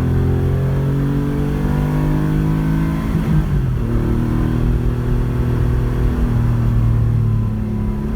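Porsche 911 rally car's flat-six engine running under load, its pitch climbing slowly, then dropping about three seconds in like a gear change, and shifting again near the end.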